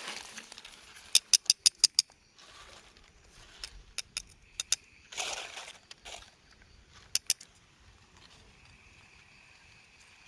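Quick runs of sharp clicks and snaps with brief rustles between them, like things being handled and moved about; a faint steady high tone comes in near the end.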